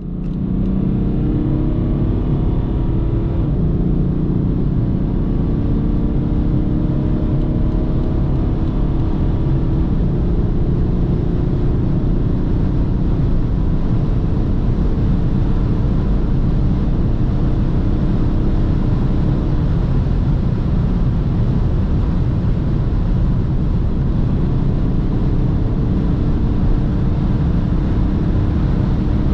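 BMW 330d's 3.0-litre straight-six diesel pulling at high autobahn speed over a steady rush of road noise. Its engine note rises over the first few seconds, then keeps climbing slowly as the car gains speed.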